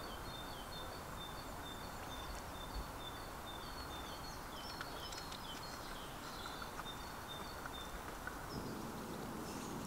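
A small songbird singing a repeated two-note phrase, a high note then a slightly lower one, about twice a second, stopping about eight seconds in. Under it runs a faint, steady outdoor hiss.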